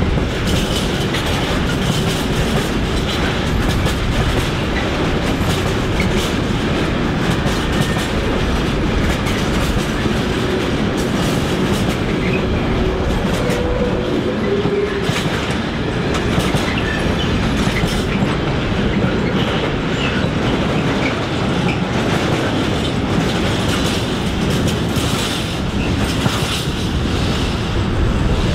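Freight train of flat wagons rolling past, wheels clattering steadily over rail joints and points, with a brief faint wheel squeal about halfway through.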